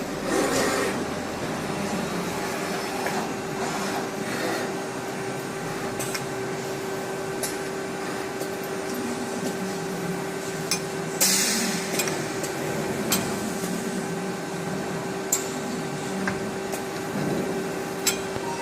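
FBL-200 CNC turning centre running, with a steady machine whine and scattered sharp metallic clinks. A short hiss comes about eleven seconds in.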